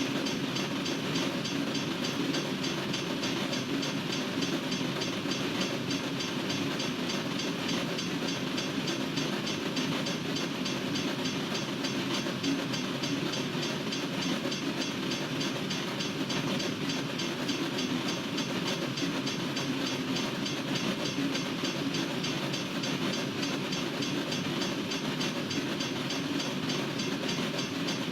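Freight train cars rolling steadily past, with continuous wheel-on-rail noise and no break or change.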